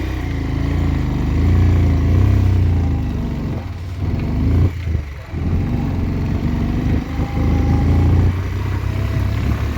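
Motorcycle engine running under load as the bike climbs a winding hill road, its pitch wavering with the throttle and easing off briefly about five seconds in.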